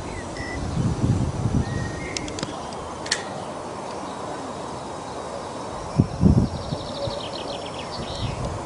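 Small birds chirping, with a quick high trill near the end, over outdoor background noise. Low rumbling bursts come about a second in and, loudest, about six seconds in, with a couple of light clicks between them.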